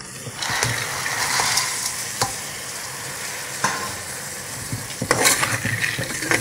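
Soaked dried peas (kerao) sizzling as they fry in hot oil and spices in a pressure cooker, with a few light clicks. From about five seconds in, a spatula stirs and scrapes them against the pot.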